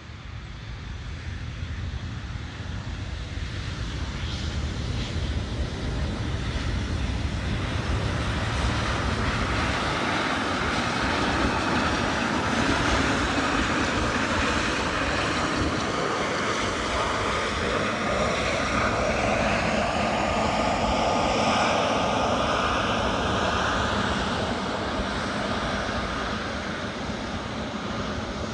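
Jet engines of a Boeing 777F freighter (GE90 turbofans) on landing. The sound grows louder over several seconds, holds with a whine that falls in pitch as the aircraft passes, then fades near the end.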